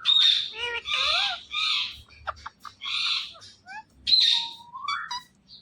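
Indian ringneck parrot calling: a string of harsh squawks mixed with short rising and falling whistled notes, with a longer rising whistle about five seconds in.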